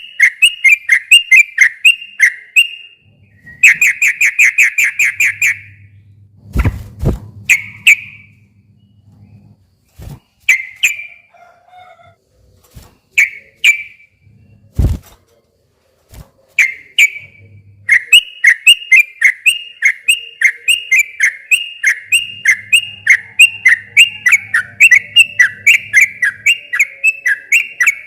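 Yellow-vented bulbul (trucukan) singing in fast runs of repeated bubbly notes, in several bursts with short pauses, then one long continuous run from about two-thirds of the way in. A few sharp clicks are heard in the middle.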